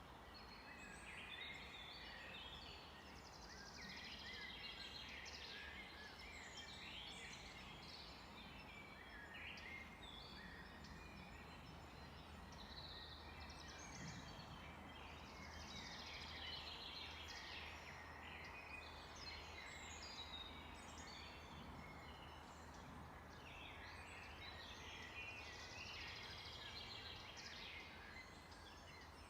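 Several songbirds singing and chirping at once, a dense chorus of short twitters and trills, over a faint steady hiss.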